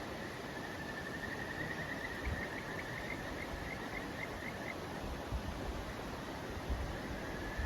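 Outdoor ambience: a high, pulsing trill that fades out about five seconds in, over a low rumble with a few soft thumps.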